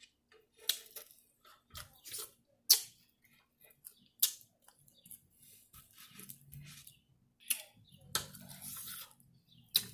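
Close-up eating sounds: chewing and wet mouth noises, broken by several sharp clicks and smacks.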